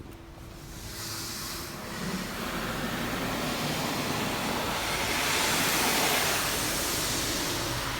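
PDQ LaserWash 4000 touchless car wash gantry spraying over the car, heard from inside the cabin as a hiss of water on the bodywork. It swells as the arm passes, peaks, then fades near the end.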